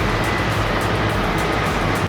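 Heavy diesel machinery working under load, a T-170 crawler bulldozer towing a loaded Kamaz truck through deep sand: a dense, steady engine and drivetrain noise with a faint high whine over it.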